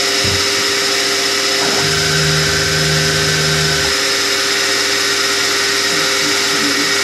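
Small workshop machine tool with its electric motor running steadily, giving a constant whine. A deeper hum comes in about two seconds in and drops away about two seconds later.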